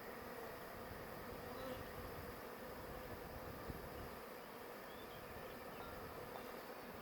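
Honey bee swarm buzzing: a steady, faint hum of many bees flying at once.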